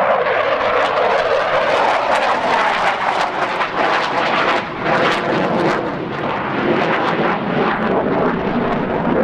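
Mikoyan MiG-29 jet fighter's two Klimov RD-33 turbofans in a loud display pass: dense jet noise with a crackling edge, dipping briefly a little past halfway.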